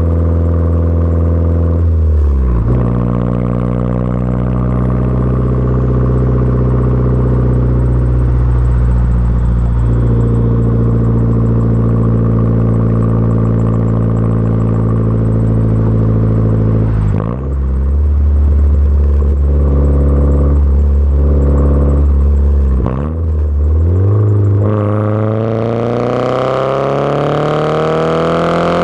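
Audi 1.8T turbocharged four-cylinder engine running through a catless downpipe and 3-inch cat-back exhaust, a steady loud drone. Its pitch dips briefly three times, then climbs steadily near the end as the engine revs up.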